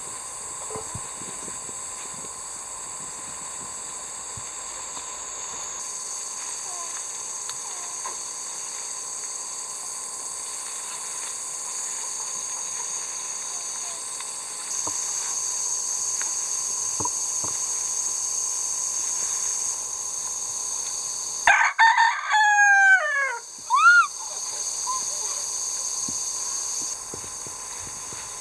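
A rooster crows once near the end, a loud call of about two and a half seconds that falls in pitch, over a steady high-pitched background drone.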